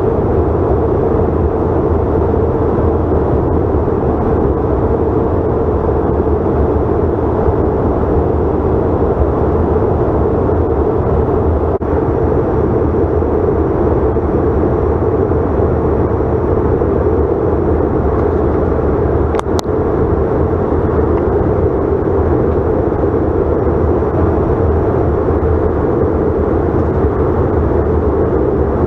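Steady cabin noise of a Delta CRJ900 in flight: the rear-mounted turbofan engines and rushing airflow make an even, dense hum. A single brief click about two-thirds of the way through.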